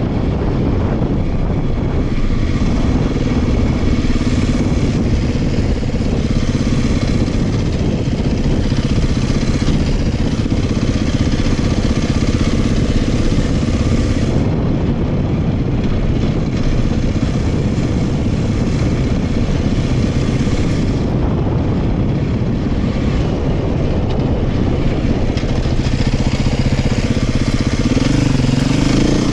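Beta 500 dirt bike's single-cylinder four-stroke engine running under way on a trail ride, its pitch shifting with the throttle and rising near the end, with heavy wind noise on the microphone.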